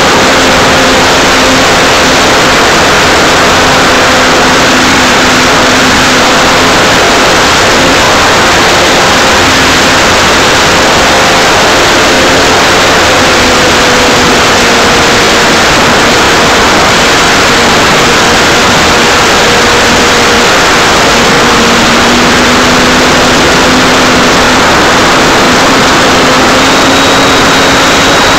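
Electric motor and propeller of an Art-Tech Cessna 182 RC model plane in flight, heard from right on the nose under a heavy, loud rush of wind. A faint motor hum sits under the noise and drifts slightly in pitch with throttle.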